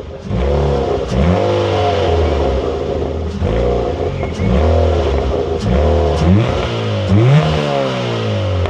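Ford Fiesta Mk6's 1.25-litre 16-valve four-cylinder petrol engine heard through its exhaust, blipped about seven times in quick succession, its pitch rising and falling back to idle each time.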